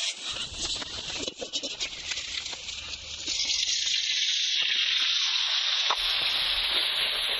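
Chicken frying in hot oil: a steady sizzle with scattered crackles that grows louder about three seconds in.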